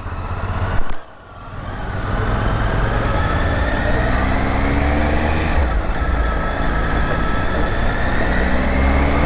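Motorcycle under way, its engine note rising in pitch several times as it accelerates through the gears, over heavy wind rumble on the microphone. The sound drops away briefly about a second in, then builds again.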